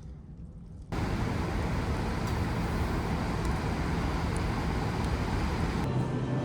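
Steady road and tyre noise of a car driving at speed, starting abruptly about a second in after a low rumble.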